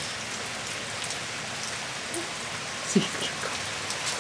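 Steady rain falling and pattering on surfaces, with scattered drips. A short voice-like sound about three seconds in.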